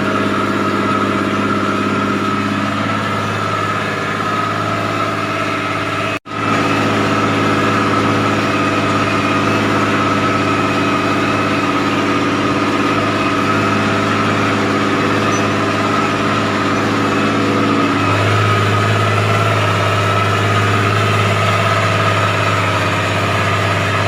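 MTZ-1221 tractor's six-cylinder diesel engine running steadily under load while pulling a cultivator. Its note shifts a few seconds in and again about three quarters of the way through, and the sound cuts out for an instant about six seconds in.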